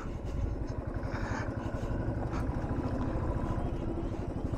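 Royal Enfield Thunderbird 350's single-cylinder engine running steadily while riding, a low, even engine beat.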